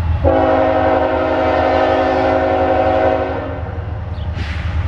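Norfolk Southern diesel locomotive's air horn sounding one long, steady blast of about three seconds as the intermodal train approaches, over a low rumble.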